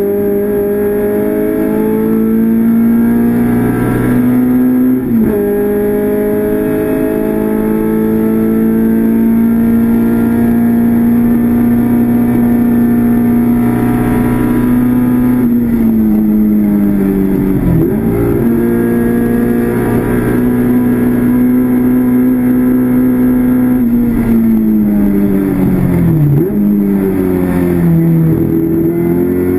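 Classic Mini race car's four-cylinder A-series engine, heard from inside the cockpit at racing speed. The revs climb, dip briefly at a gear change about five seconds in, and hold high for about ten seconds. They then fall as the car slows for corners, with sharp dips at gear changes a little past the middle and again near the end, and climb once more as it accelerates away.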